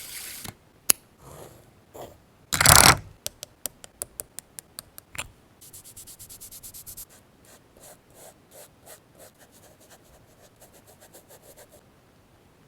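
Paper and craft materials being handled and worked on a desk: a loud paper rustle about two and a half seconds in, a run of light taps, then quick repeated scraping strokes, several a second, growing fainter toward the end.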